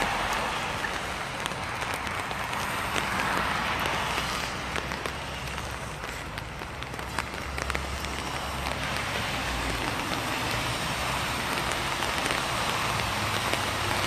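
Steady rain falling, with many small sharp drop ticks over an even hiss. A low rumble of road traffic swells about halfway through.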